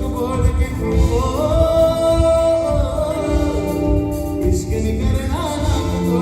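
Live band playing a song with a lead singer over a steady beat; about a second and a half in, the voice holds one long note.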